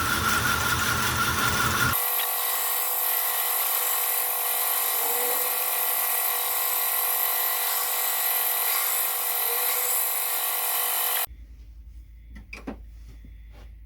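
Belt grinder running with the flat of a steel knife blade held against the abrasive belt: a steady, high-pitched mechanical whine. The sound changes abruptly about two seconds in and stops suddenly near the end, leaving a low hum and a few light knocks.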